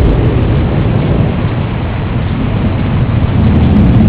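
Thunderstorm: a long, loud rumble of thunder over steady rain, swelling again near the end.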